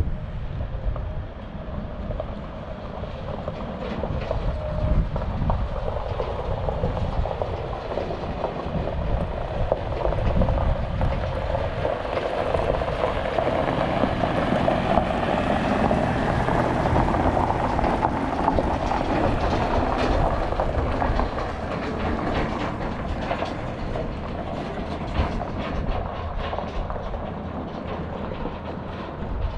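Rumbling running noise of a moving vehicle, growing louder through the middle and easing off toward the end.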